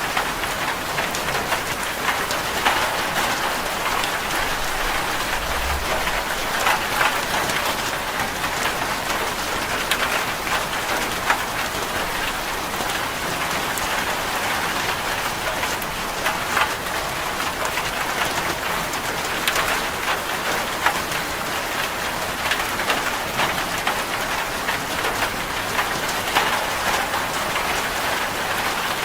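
Steady heavy rain falling on a corrugated zinc roof, a dense patter of drops hitting the metal sheets.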